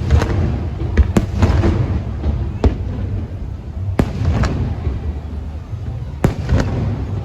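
Aerial fireworks bursting: about five sharp bangs at uneven intervals, each trailed by a rolling echo, over a steady low rumble.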